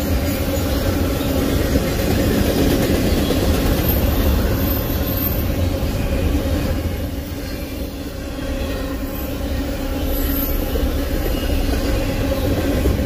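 Double-stack intermodal container train's well cars rolling past: a steady rumble of steel wheels on the rails, with brief high wheel squeals twice.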